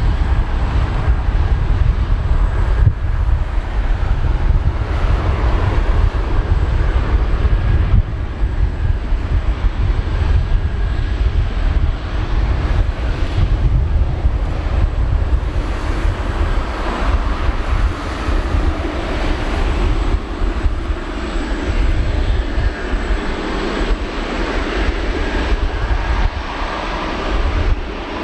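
Jet airliner's engines running at takeoff thrust: a steady, loud roar over a heavy low rumble, growing in the second half.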